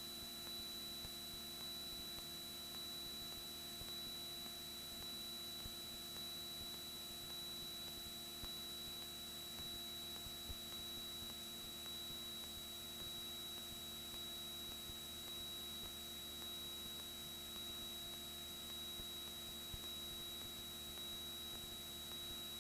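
Faint, steady electrical hum and hiss in the cockpit audio feed, with a thin, unchanging high whine.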